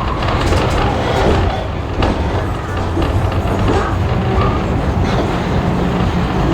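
Passenger carriage riding along the track behind a steam locomotive: a steady loud rumble of wheels on rail, with faint knocks now and then.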